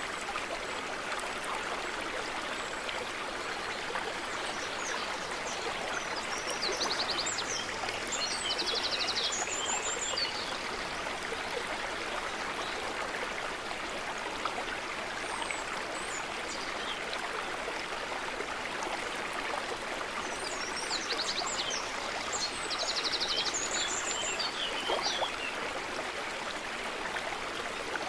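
Stream running steadily, with a small bird singing twice over it: bursts of high chirps and a fast trill, about a quarter of the way in and again about three quarters of the way through.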